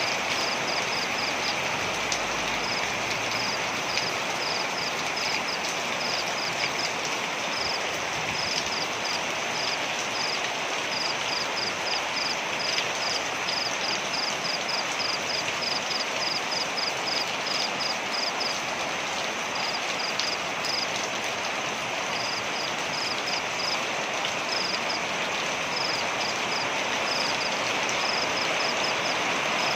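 Waterfall rushing steadily, with a high-pitched chirping pulsing several times a second in runs that stop and start.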